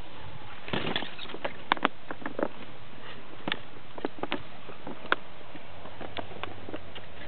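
Kayak paddling: irregular sharp knocks and small splashes from the paddle, over a steady rush of water.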